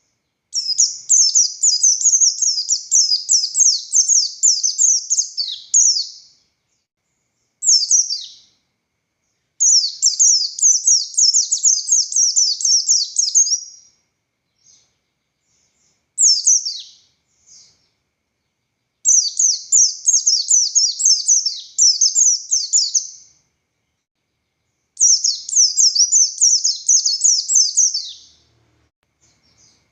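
A buxtoni white-eye (pleci) in full song, giving long rapid twittering phrases of quick, sharp, downward-sweeping high notes. There are four bursts of about four to five seconds each, with short single calls in the pauses between them.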